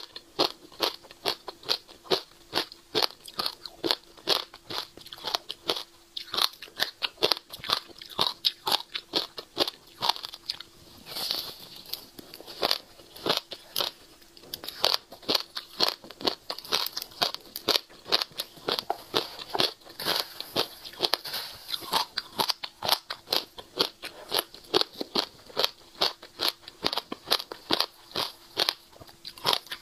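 Close-miked chewing of a seed-coated passion fruit: a continuous, rapid crunching of sharp, crisp crackles, several a second.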